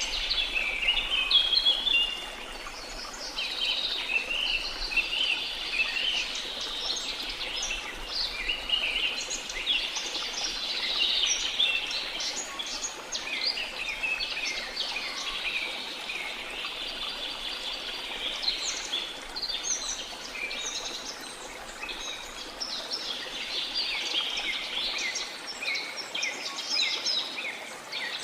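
Dense chorus of many birds chirping and calling over one another, with short quick notes crowding together, over a faint steady rush of falling water.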